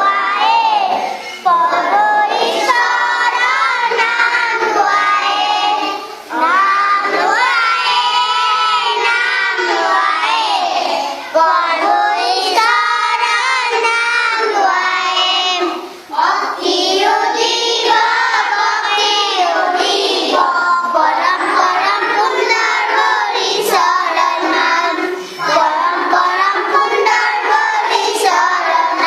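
Schoolchildren singing a prayer together, in phrases separated by short pauses.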